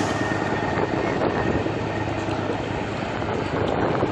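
Steady engine-like rumble with a constant low hum, mixed with wind on the microphone.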